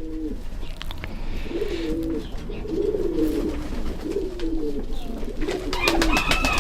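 Birds giving low, wavering cooing calls, repeated about once a second, with a brief higher-pitched note near the end.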